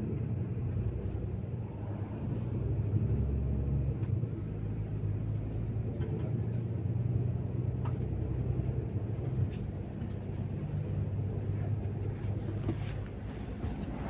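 MAZ-215 articulated city bus driving, heard from inside: a steady low drone of engine and road noise, with a few small clicks and rattles.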